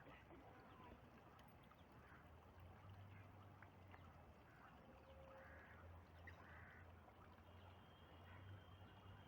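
Near silence: faint open-air ambience with a few short, faint distant bird calls scattered through it over a low steady hum.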